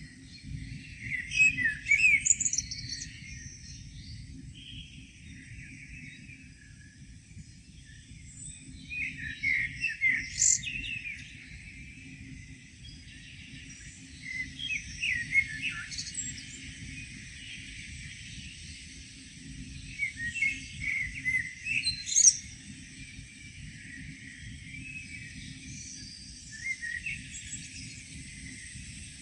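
Songbirds singing and chirping in a morning chorus, in bursts of song every few seconds, over a steady low rumble.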